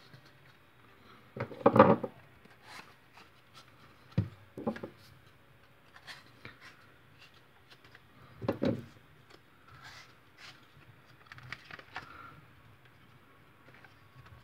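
Plastic knocks, clicks and rubbing from a Nerf Hammershot with a 3D-printed seven-shot cylinder being handled, primed and loaded with foam darts. Two louder short knocks come about two seconds in and past the middle.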